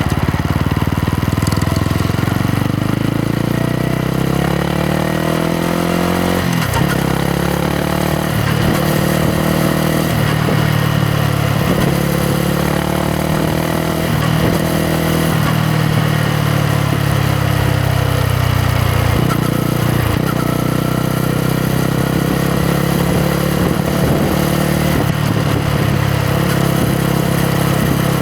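2021 Yamaha MT-125's single-cylinder four-stroke engine and exhaust under way. The revs climb over the first several seconds to a gear change, then run steadier and slowly ease off, with several brief dips in pitch as the rider shifts or rolls off the throttle.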